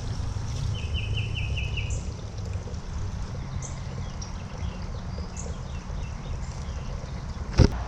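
Outdoor garden ambience: a low rumble of wind on the microphone, a small bird giving a quick trill of about six notes about a second in, and faint chirps. A single sharp knock near the end.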